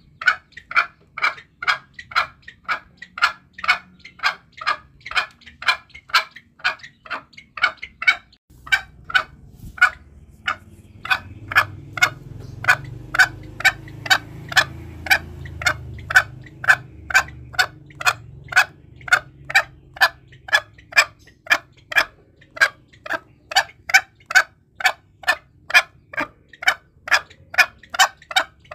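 Green junglefowl giving short calls in a fast, even series of about two calls a second. A low rumble underlies the calls from about a third of the way in until past the middle.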